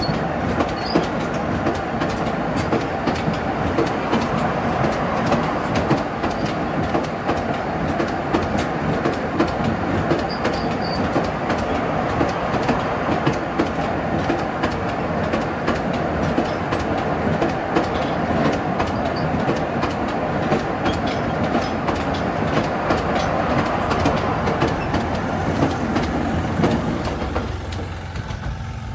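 A sugar cane train's loaded cane bins rolling past, their wheels clicking over the rail joints in a steady, uneven clatter. The sound fades near the end.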